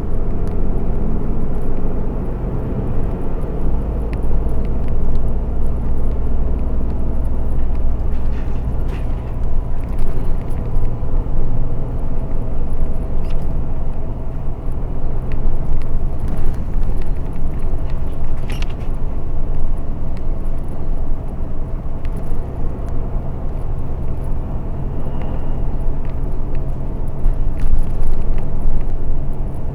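Ofunato Line BRT bus running along its busway, heard from inside: a steady low engine drone and road noise, with a few brief clicks or rattles.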